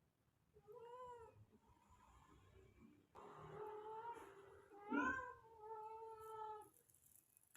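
Male cat caterwauling to mate: one short meow that rises and falls in pitch, then two long, drawn-out yowls starting about three and five seconds in.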